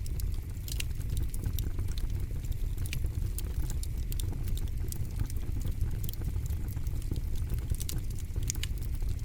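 Campfire burning: frequent, irregular sharp crackles and pops over a low, steady rumble.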